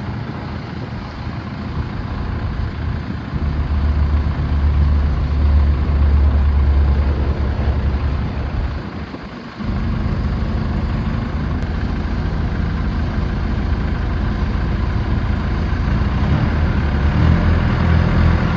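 CAT 416C loader backhoe's diesel engine running, with a deeper, louder rumble for a few seconds early on and a brief dip about halfway through before it settles back to a steady run.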